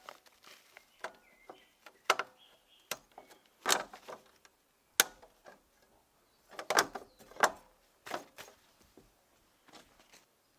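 A series of irregular knocks and clatters, a dozen or so sharp hits spread unevenly, the loudest about halfway through.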